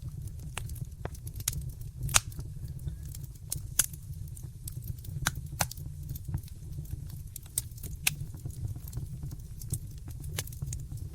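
Wood fire crackling in a fireplace: irregular sharp pops and snaps over a steady low rumble of the flames, with a few louder pops about two and four seconds in.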